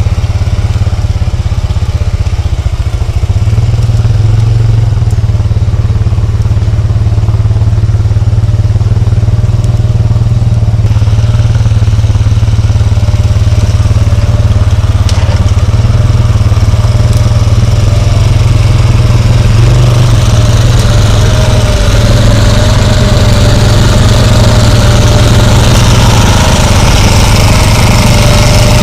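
ATV engine running steadily and loudly, with a thin whine that comes in over the second half.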